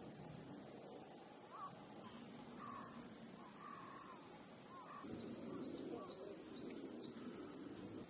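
Faint bird calls: a few short calls in the middle range, and two runs of a small bird's quick, high, rising chirps repeated several times.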